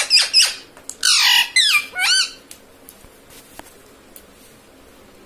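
Pet ring-necked parakeet squawking: a quick run of loud, shrill calls that sweep up and down in pitch, stopping a little over two seconds in, then only a faint tick or two.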